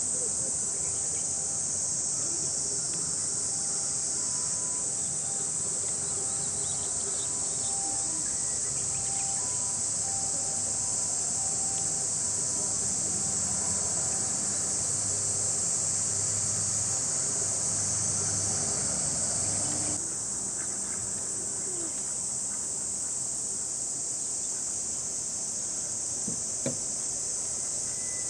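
Chorus of cicadas shrilling: a loud, steady, high-pitched hiss without a break, dropping slightly a little over two-thirds of the way through.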